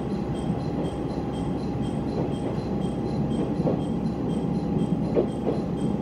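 Heisei Chikuho Railway diesel railcar heard from inside the cabin while running: a steady rumble of engine and wheels on the track, with a steady mid-pitched hum. A few brief squeaks come in the second half.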